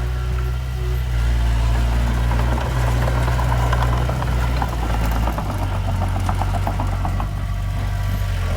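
Heavy earthmoving machine's diesel engine running steadily, with a rapid metallic clatter over it in the middle of the stretch and a change in engine pitch about five seconds in.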